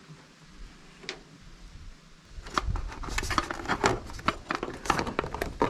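Handling noise: a rapid, irregular run of clicks, knocks and rustling that starts about two seconds in, as objects are worked by hand.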